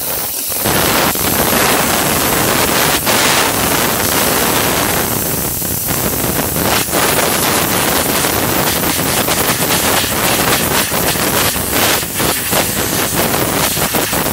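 Rancilio Silvia espresso machine's steam wand opened and blowing steam with a loud hiss that starts about half a second in and grows choppy and uneven in the second half. This is a test of the steam function after a service that included a new pump.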